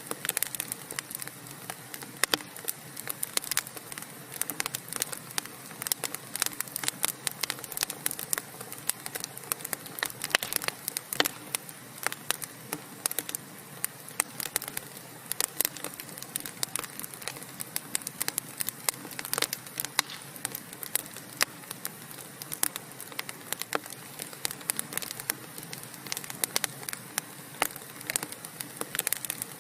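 Wood fire burning in a fireplace: a steady low hiss with frequent sharp, irregular crackles and pops from the burning logs.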